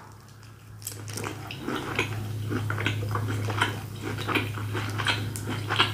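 Chewing a mouthful of grilled steak: irregular wet smacks and clicks of the mouth, over a steady low hum.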